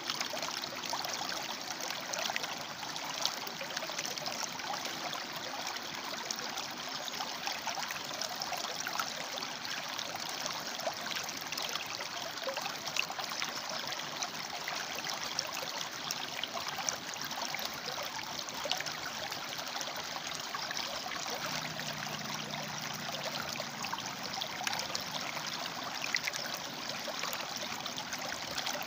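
River water flowing among rocks: a steady rush with many small splashes and trickles.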